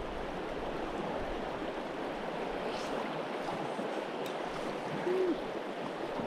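Steady rushing of a back-country river flowing over stones. About five seconds in, a short low note briefly rises above the water noise.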